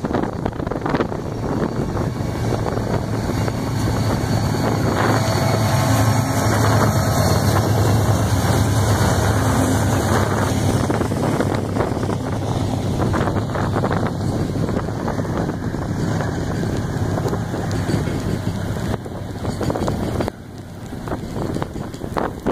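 Loaded freight train's cars rolling past with a steady rumble of wheels on rail, mixed with heavy rain and wind on the microphone. The rumble drops off about twenty seconds in.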